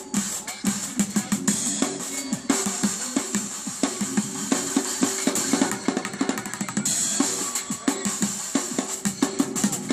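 Bucket drumming: sticks beating a fast, dense rhythm on upturned buckets and barrels. Hits ring at a few distinct pitches, with a steady high sizzle over them.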